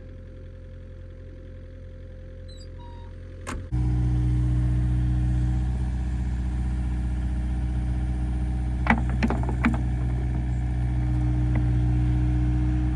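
Kubota digging machine's diesel engine running steadily, quiet at first and then much louder from about four seconds in, with three sharp metallic clanks a little after the middle.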